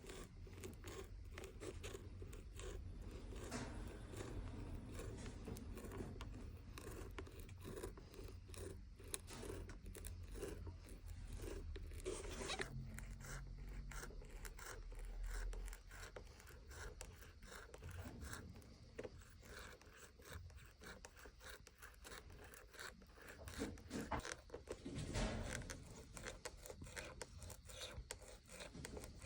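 A blade cutting a leather shoe sole in many short, rasping strokes, the leather crunching and tearing under the cut, with a louder flurry of strokes near the end.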